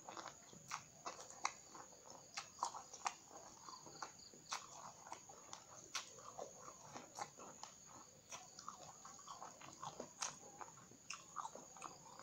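Close-miked chewing of raw round green eggplant (terong hijau): irregular crisp crunches and wet mouth clicks, a few a second.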